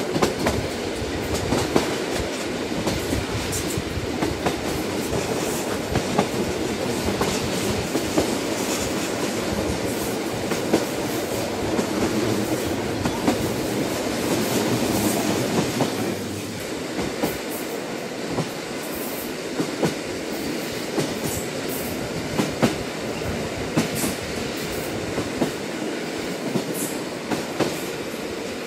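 Train running on the rails: a steady rumble broken by frequent irregular clicks of the wheels on the track. It gets slightly quieter about halfway through.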